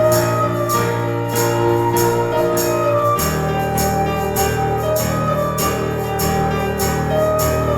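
Worship band playing an instrumental passage with no singing: held chords over a bass line, with a high jingling percussion stroke about twice a second. The bass moves to a new chord about three seconds in.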